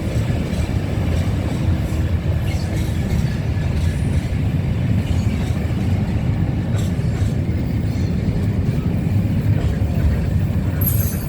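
A train running by with a steady low rumble.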